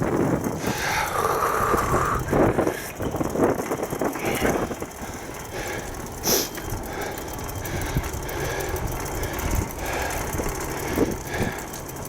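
Steady rumbling noise of a bicycle being ridden along a path, with a brief sharp click about six seconds in.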